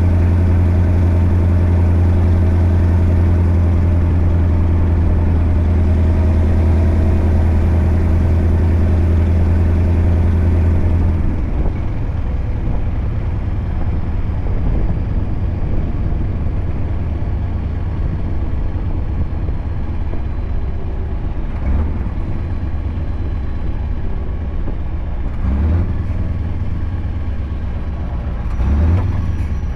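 Scania R580 V8 diesel with a straight-pipe exhaust running with a steady drone. About eleven seconds in the drone drops away to a lower, uneven rumble, with a few brief louder noises in the second half.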